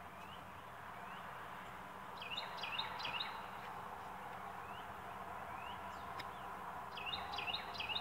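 A songbird singing: a quick phrase of four or five down-slurred notes about two seconds in and again near the end, with single short rising notes between, over a steady low background hum.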